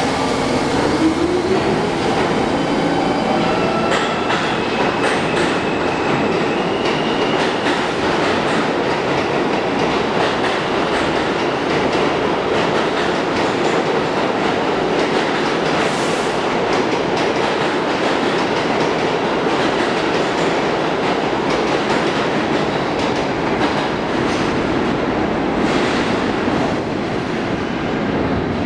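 New York City Subway trains (R46 and R160 cars) running through the station with a loud, steady rumble and wheels clicking over the rail joints. A motor whine rises in pitch in the first second.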